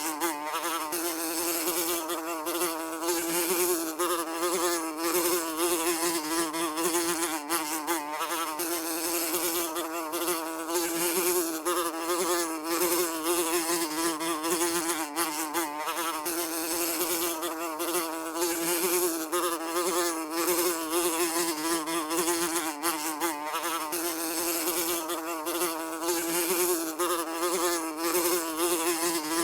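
A fly buzzing continuously, its wingbeat hum holding close to one pitch with a slight waver.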